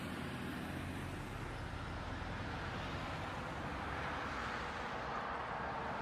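Steady motor-vehicle engine and road noise, as heard by a dash cam riding in a moving vehicle, with a low hum throughout.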